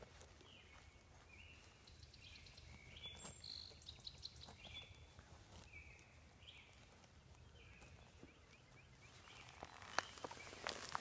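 Faint bird calling over and over, about once a second, in near quiet. Crackly rustling in dry grass near the end.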